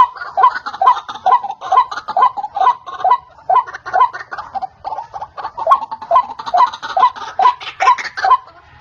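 White-breasted waterhen calling: a steady run of repeated call notes, about two to three a second, breaking off shortly before the end.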